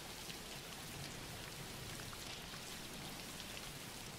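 Steady, soft background rain, with a light patter of scattered drops.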